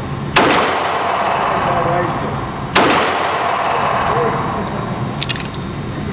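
Two .45 ACP pistol shots from a CZ 97B firing 230-grain ball, about two and a half seconds apart, each ringing out with a long reverberant tail. A few small metallic clicks follow later.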